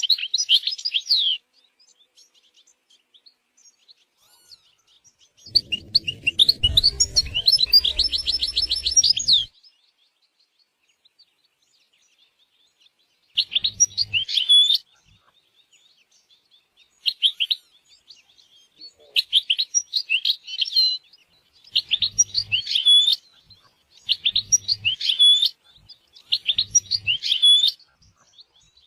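European goldfinch singing: short twittering phrases with pauses between them, and one longer phrase about six seconds in that ends in a rapid trill.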